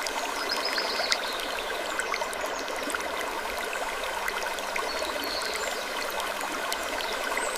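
Steady, even rushing noise like flowing water, with scattered faint ticks and a few brief, faint high squeaks.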